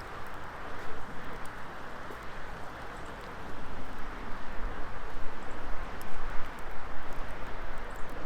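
Wood fire burning in an open fire pit: a steady rushing hiss with scattered small crackles and pops, growing louder about halfway through.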